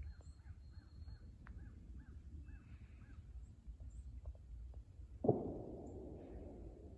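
A bird calls in a quick run of repeated notes, about three a second, for the first three seconds. About five seconds in comes a sudden low boom that fades over a second or so, the loudest sound, over a faint steady low rumble.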